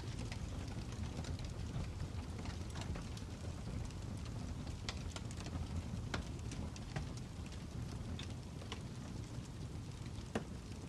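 Fire crackling: a steady low rumble with irregular sharp pops and snaps, one louder snap near the end.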